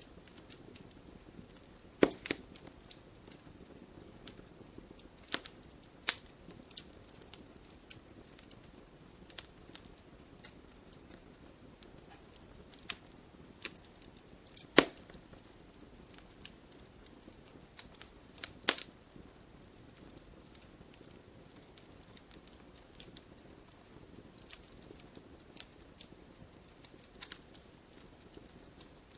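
Wood campfire crackling: irregular sharp pops and snaps over a soft, steady hiss, with the loudest pops about 2, 6, 15 and 19 seconds in.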